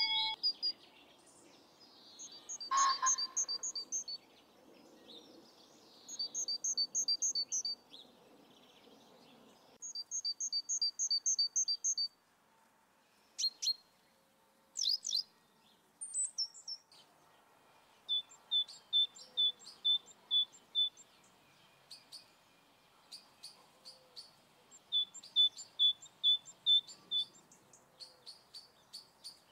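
Songbirds singing: short phrases of rapid repeated high chirps, each a second or two long, separated by pauses of a few seconds.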